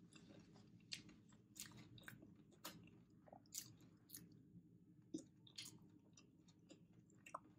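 Faint, close-miked chewing of a mouthful of filled wrap: soft, irregular wet clicks and mouth smacks, about one or two a second.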